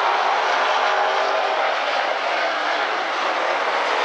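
A field of Super Late Model stock cars running at racing speed, many V8 engines droning together in a steady, loud blend.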